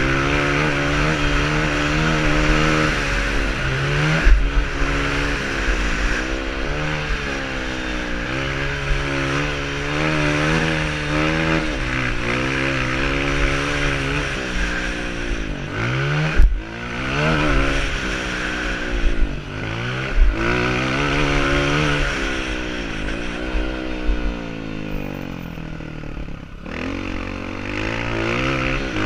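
Honda CRF230's single-cylinder four-stroke engine revving up and dropping back again and again as the bike is ridden round a dirt track, with a few sharp knocks along the way.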